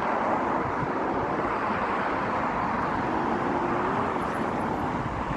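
Steady rushing of water flowing under a bridge.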